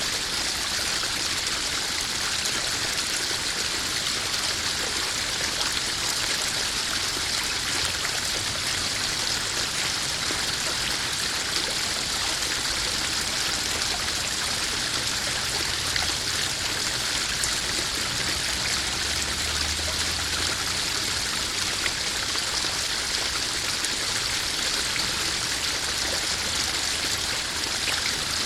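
Small garden waterfall spilling into a koi pond: water running and trickling steadily.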